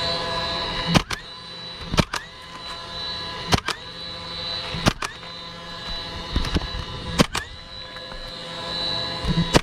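Nails being driven into a replacement asphalt roof shingle: sharp single strikes every second or two, about six in all, over a steady mechanical hum.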